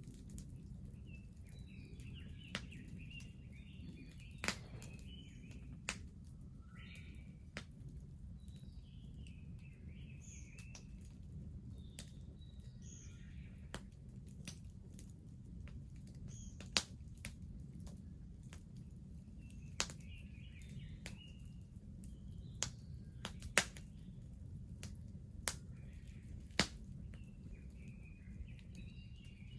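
Wood bonfire crackling, with sharp irregular pops over a steady low rumble of the burning fire. Small birds chirp in short bursts throughout.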